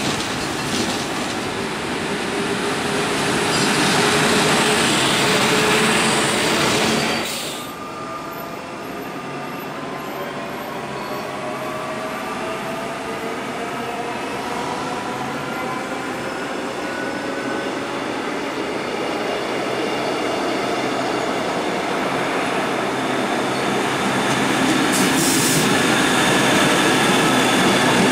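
SNCB electric trains: a double-deck train rumbling past close by on rolling wheels, cut off abruptly about seven seconds in. Then an electric whine that rises slowly in pitch as a train gets under way, and a single-deck train rolling in alongside the platform, growing louder toward the end.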